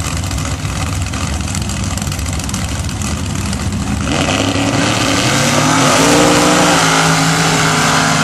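Race truck engine at full throttle on a sand drag run, loud and rough. It grows louder about four seconds in, its pitch climbing and then holding high.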